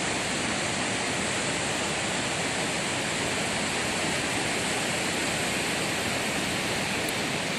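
Ocean surf washing steadily on a beach, heard as an even hiss with no breaks or rise and fall.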